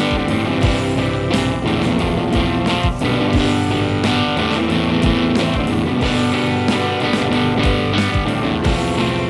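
Rock band playing live in rehearsal: electric guitars loud in the mix over steady drum beats, with the bass guitar low. The lead guitar volume is set too high.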